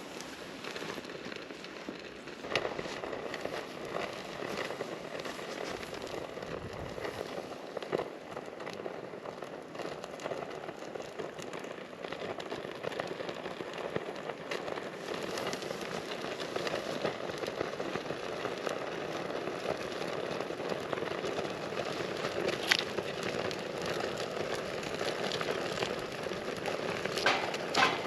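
Wood campfire burning with a steady crackle, broken by a few sharp pops from the firewood.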